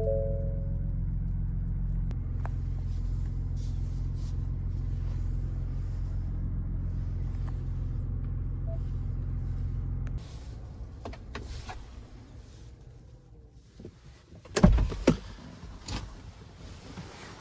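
2023 Ford Bronco Raptor's 3.0-litre twin-turbo V6 idling steadily, then shut off about ten seconds in. A short chime sounds at the very start, and a few sharp knocks come near the end after the engine has stopped.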